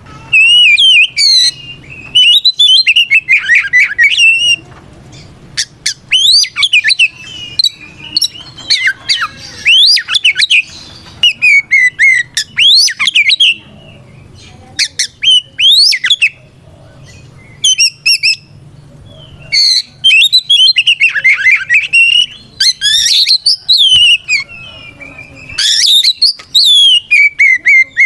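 Oriental magpie-robin singing loudly in fast, varied phrases of gliding whistles and trills, broken by short pauses.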